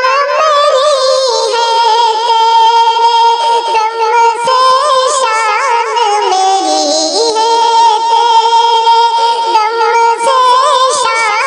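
A high-pitched voice singing the melody of a tarana (an Urdu/Hindi devotional-patriotic song), with long held notes that waver in pitch.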